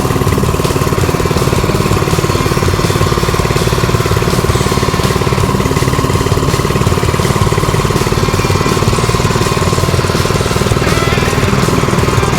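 Small engine of a late-1960s minibike running steadily on choke, the only way it will keep running; the carburettor is thought to be at fault.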